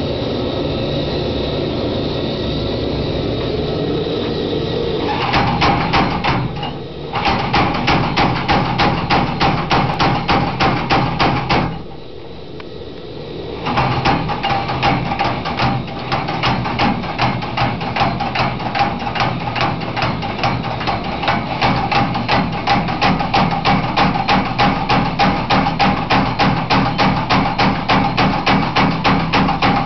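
Homemade spring power hammer forging a hot Damascus steel billet. A steady running sound comes first, then the hammer strikes in a rapid, even run of blows with a ringing tone. The blows break off briefly after the first second or so, and again for about two seconds a third of the way in.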